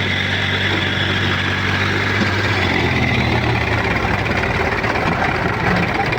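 Diesel engine of a backhoe loader or tractor running steadily at low revs, a continuous low drone.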